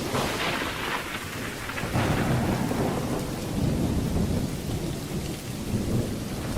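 Thunderstorm: rain falling steadily with low, rolling thunder rumbling underneath.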